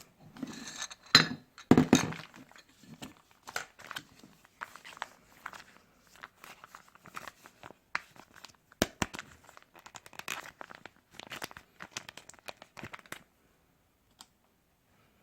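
Close-miked eating of instant ramyun: a run of quick, wet, clicky mouth sounds of slurping and chewing noodles, loudest about two seconds in, that stops about thirteen seconds in.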